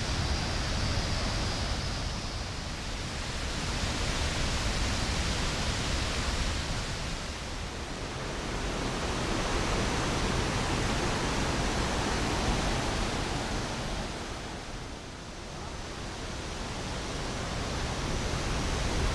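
Large waterfall pouring, a dense steady rush of water that swells and eases, dipping briefly about fifteen seconds in.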